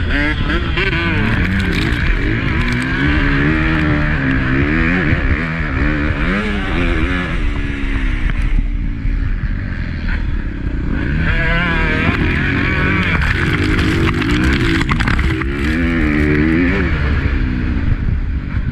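Honda CRF250 motocross bike's single-cylinder four-stroke engine ridden hard, its revs climbing and dropping again and again through throttle and gear changes. The engine eases off about nine seconds in, then picks up again.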